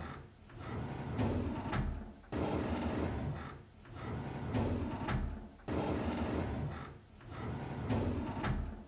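A drawer sliding open on its runners with a rumbling scrape, repeated in a loop. Each pull starts suddenly, about every three and a half seconds.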